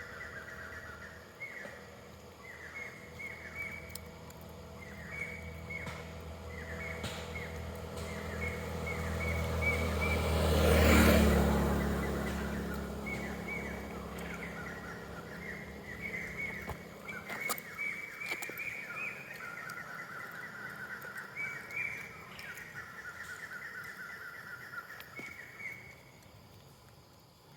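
Birds chirping over and over in short, high calls. Midway a motor vehicle passes by, growing louder to a peak and then fading away.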